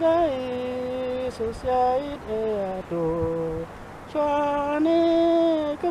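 A person singing a slow melody without clear words, with long held notes, gentle pitch slides and short breaks between phrases.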